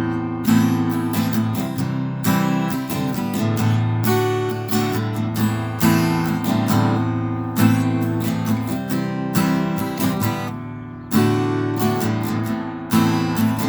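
Acoustic guitar strummed in a steady rhythm through an instrumental break, with no singing. The sound dips briefly before a strong strum about eleven seconds in.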